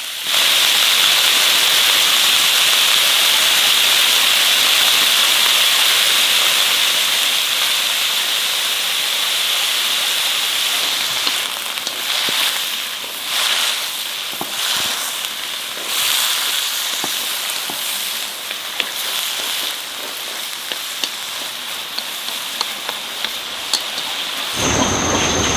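Food sizzling loudly in hot fat with a steady hiss that starts abruptly. About halfway through it turns uneven, with surges and sharp crackles and pops. Near the end it gives way to a different, fuller rumbling sound.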